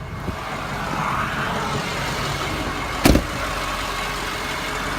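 2005 Ford F-250's 6.0-litre Power Stroke V8 turbo diesel idling steadily, with one sharp, loud knock about three seconds in.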